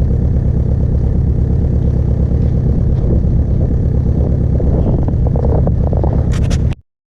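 Diesel engine idling steadily, with a few sharp clicks about six seconds in; the sound then cuts off abruptly.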